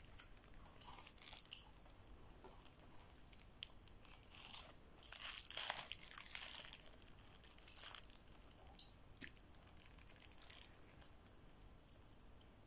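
Faint close-up chewing of a mouthful of burger, soft wet mouth sounds with scattered crunches and light crinkles of the paper wrapper; the loudest chewing comes about five to seven seconds in.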